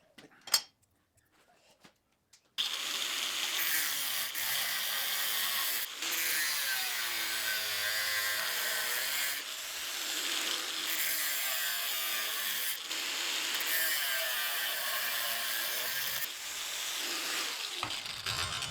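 Angle grinder working on thick steel: a loud, steady grinding hiss starting about two and a half seconds in, in several short stretches joined together, with the pitch sagging and recovering as the disc bites.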